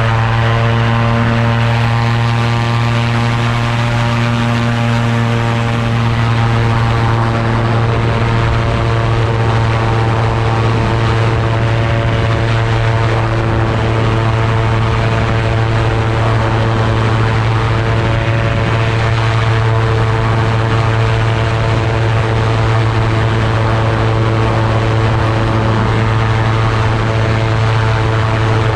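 Engine and propeller of a Polaris FIB flying inflatable boat running at a steady throttle, a constant drone with a hiss of air over it.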